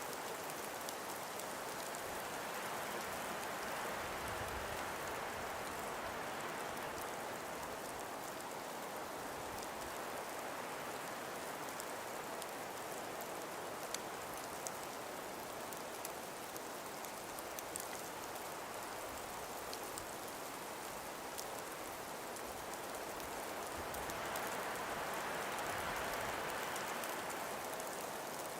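Gentle wind blowing through frost- and ice-covered forest trees as an even hiss that swells twice, near the start and near the end, with scattered faint ticks.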